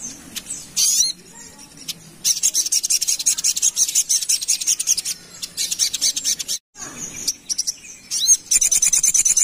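Little spiderhunter (sogok ontong) singing: long runs of very fast, high chattering notes, with a short upward-sweeping whistle leading into each run. The sound drops out briefly about two-thirds of the way through.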